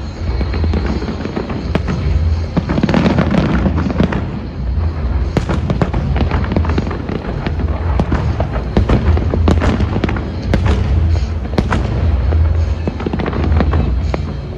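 Aerial fireworks bursting in quick succession, with many sharp bangs and crackles, over loud music with a heavy bass.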